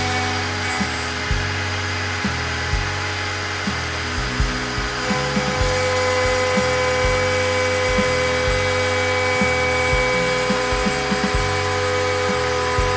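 Large DIY CNC router running: a steady spindle whine, under low motor tones that jump in pitch every second or so as the machine moves.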